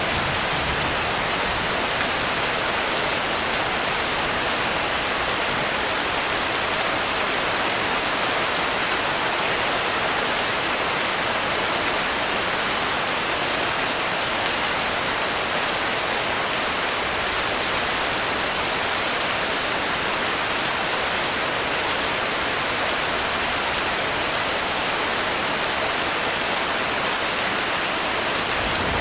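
Steady rainfall, an even, unbroken hiss at a constant level.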